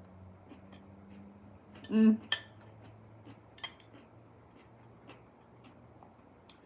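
Fork or spoon clicking against a dish while eating, a few light scattered clicks over a low steady hum, with one brief louder hum-like sound about two seconds in.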